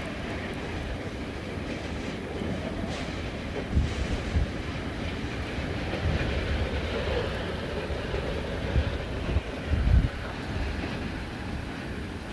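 Strong wind rushing steadily, with heavy gusts buffeting the microphone about four seconds in and again near ten seconds.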